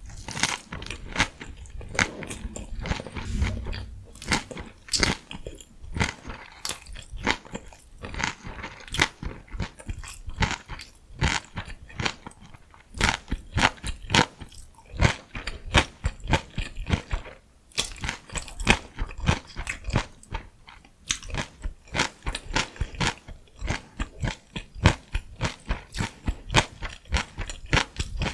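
Close-miked eating sounds of biting and chewing crunchy vegetables: cabbage rice wraps with burdock and carrot, or pickled radish and cucumber. A continuous stream of crisp crunches, several a second, with a brief pause about two-thirds of the way through.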